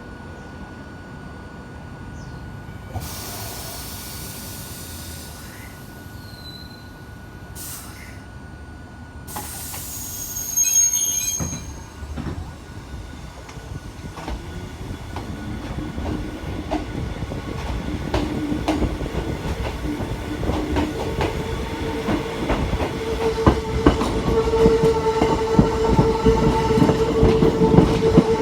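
Hakone Tozan Railway electric train getting under way and running louder and louder, with rail clicks and a steady whining tone. A few short hisses come near the start.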